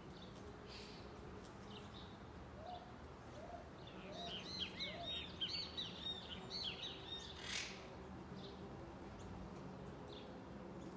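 A bird giving a quick, chattering run of high chirps for about three seconds in the middle, over a faint steady background hum.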